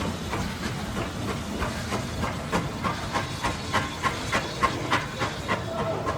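GWR-style 2-6-0 steam locomotive No. 9351 hissing steam while working, with a regular exhaust beat of about three chuffs a second that becomes clear about two seconds in.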